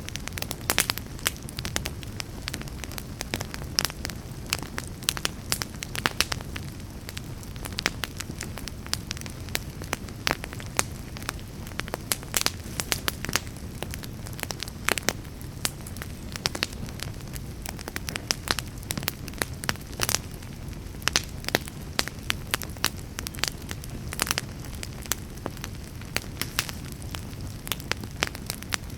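Wood fire burning in a fireplace with a steady low rumble and frequent, irregular sharp crackles and pops.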